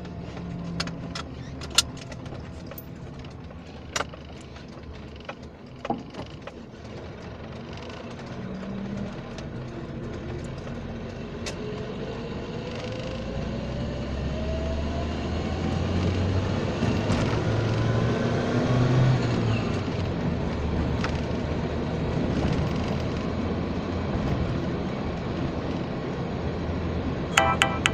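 Car being driven, with a few sharp knocks or clicks in the first six seconds, then a whine that rises steadily in pitch as the car picks up speed. These are the knocking or squeaking noises the owner is trying to identify.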